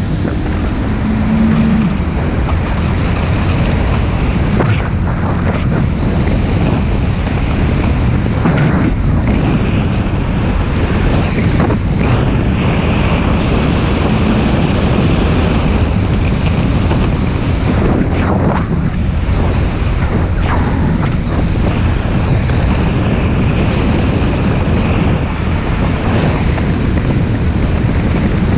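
Wind rushing and buffeting over the microphone on a moving motorbike, a steady loud rumble with a few sudden gusts.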